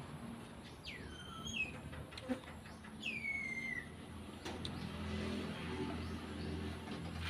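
A bird calls twice, each a clear whistle sliding downward in pitch, about a second in and again about three seconds in, over a few light clicks of food being handled. A low steady hum comes in about halfway through.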